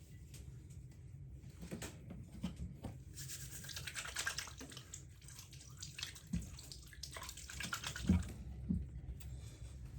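Water running for about five seconds, with small knocks and clatter of things being handled; the loudest knock comes near the end.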